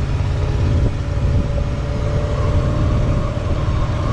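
1968 Buick Skylark's engine running as the car drives along, a steady low rumble.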